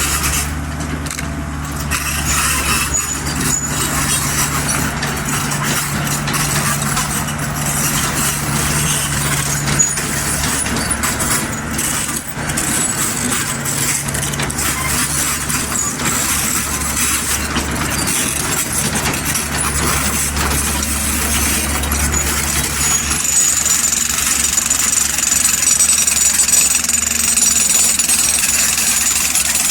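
Mini excavator's diesel engine running steadily under work, with mechanical clatter over it; it grows louder about two-thirds of the way through.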